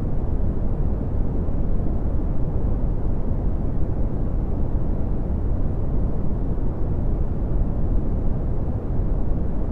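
Steady red (Brownian) noise: a deep, even rumbling hiss with most of its energy in the lows, thinning out toward the highs, unchanging throughout.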